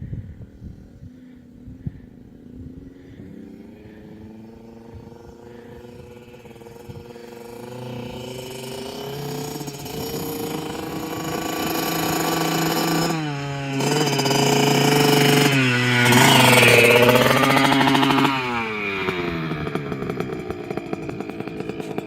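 Dirt bike engine revving as the bike comes closer, rising in pitch and growing louder, with two brief dips in the engine note around the middle. It is loudest a little past the middle, then falls away in pitch and level near the end.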